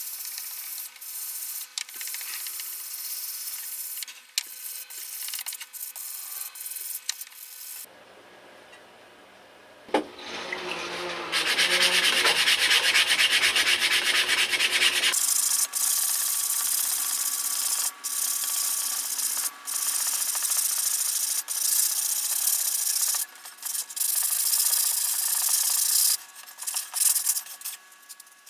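Hand sanding: steady rubbing and scraping strokes of sandpaper on a part. It comes in several short clips with abrupt cuts between them, quieter for a moment about eight seconds in and loudest a few seconds later.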